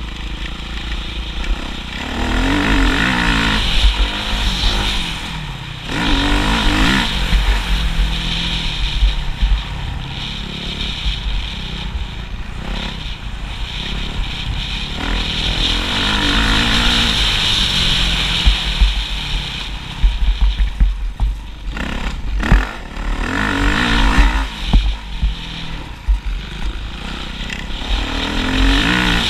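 Motocross motorcycle engine revving, its pitch rising and falling repeatedly, about five times, over a constant low rumble.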